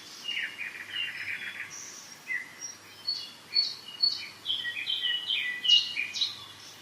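Several songbirds singing together in spring woodland, in short overlapping whistled and chirping phrases.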